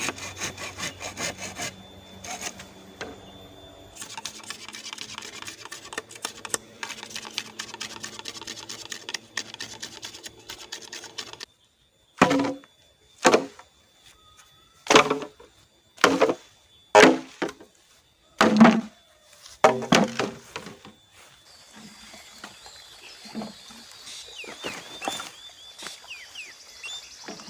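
Hand saw cutting bamboo in quick, rhythmic strokes. It cuts off abruptly, and a run of about eight loud, separate knocks on wood follows, roughly a second apart.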